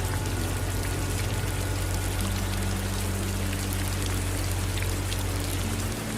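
Steady rainfall with patters of drops, blended with running water, over a low steady hum.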